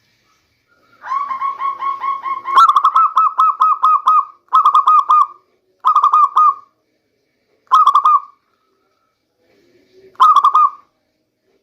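Local zebra dove (perkutut) singing its cooing song. It opens with a softer run of quick notes, moves into a long, loud phrase of rapid trilled coos, then gives four shorter coo phrases a second or two apart.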